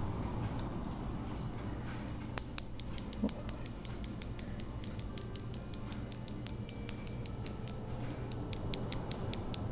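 Rapid light tapping of a cosmetic brush, about five sharp ticks a second, starting about two seconds in, as activated charcoal is dusted onto the surface of soap batter to make a thin line. A low steady hum underlies it.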